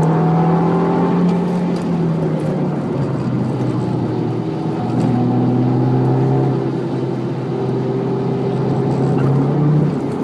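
Audi TT Mk2 2.0 TFSI turbocharged four-cylinder engine running hard at speed on track. The note eases about two and a half seconds in, then climbs slowly in pitch from about five seconds as the car accelerates again.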